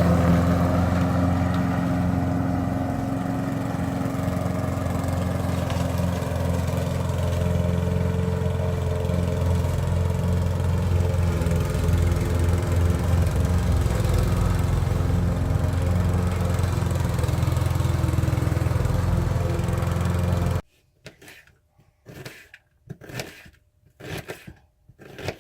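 Lawn mower engine running steadily, stopping abruptly about twenty seconds in, followed by several brief, quieter sounds.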